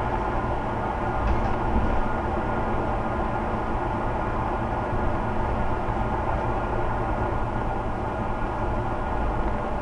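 Scania Omnicity single-deck bus running, its engine and running noise holding steady at a constant pitch and level.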